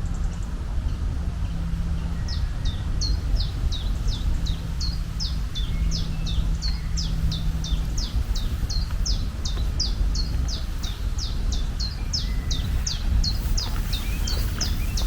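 A bird calling a long run of short, quick down-slurred chirps, about three a second, starting about two seconds in, over a steady low rumble.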